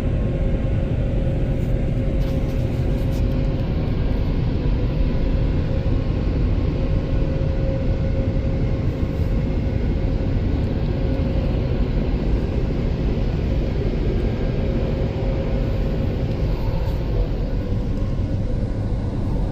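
Car wash tunnel air dryers blowing steadily on the car, heard from inside the cabin: a loud, even rush of air with a constant hum from the fan motors.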